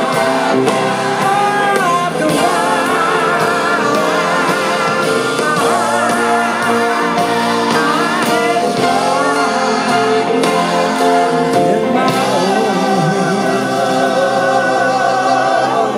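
Live band playing a slow ballad, with singing voices carrying sustained, wavering lines over the accompaniment between sung verses.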